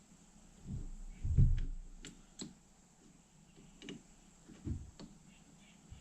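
Starter motor parts being handled during reassembly: a few dull knocks, the loudest about a second and a half in, followed by scattered sharp clicks and taps of metal pieces being fitted and set down. No motor is running.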